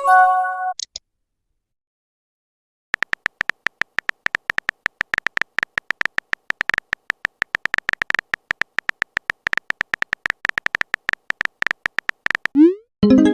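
Rapid, uneven phone-keyboard typing clicks from a chat animation, several a second. They come after a short message chime and about two seconds of silence. Near the end there is a quick rising pop and another chime.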